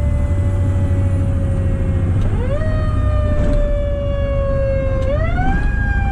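Fire truck's mechanical Q siren sounding, its pitch slowly sinking as it coasts and then wound back up twice, about two seconds in and about five seconds in. A steady low rumble from the truck runs underneath.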